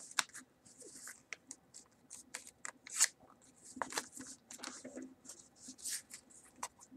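A sheet of paper being folded and creased by hand: irregular crisp rustles and crinkles, the sharpest about three seconds in.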